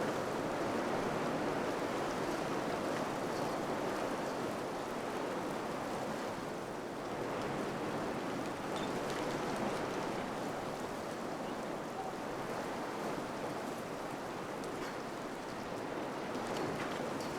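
Wind blowing steadily, a rushing noise that slowly swells and eases in strength.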